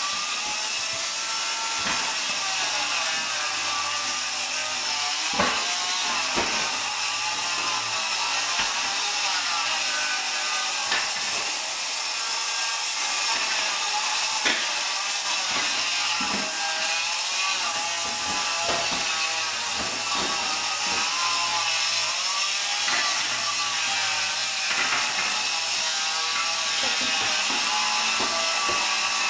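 Old hardwood flooring being ripped up: wood creaking and rasping, with scattered sharp knocks, over a steady hiss.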